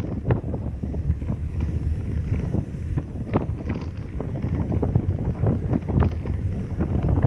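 A car driving, with wind buffeting the microphone: a steady low rumble broken by frequent irregular thumps and gusts.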